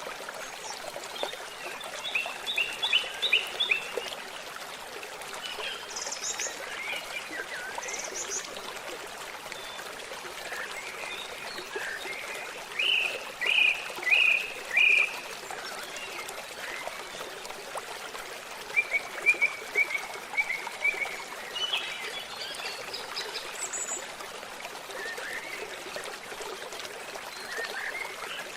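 A babbling stream with birds singing over it: several short runs of quick chirps and whistles, the loudest four sharp notes about halfway through.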